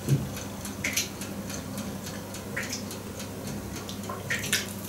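Chewing and mouth sounds of someone eating a soft honey muffin: a few short smacks at uneven intervals over a steady low hum.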